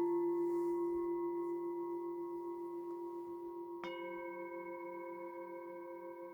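A struck metal bell-like instrument rings and slowly fades with a slow waver in the tone; it is struck again about four seconds in and rings on.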